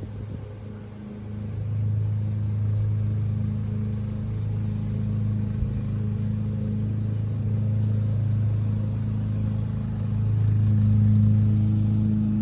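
Steady low machine hum, quieter for the first second and slightly louder near the end.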